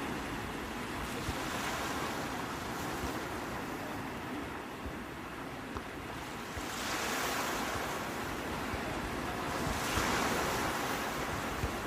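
Sea waves breaking and washing on the shore, with swells of surf about seven and ten seconds in over a steady wash of water.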